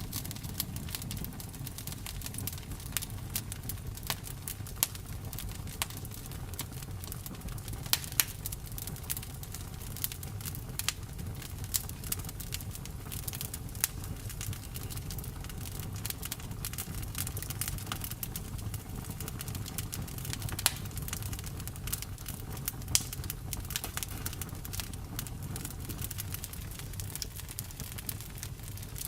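Campfire burning: wood crackling and popping in irregular sharp snaps, a few louder than the rest, over a steady low rumble of the flames.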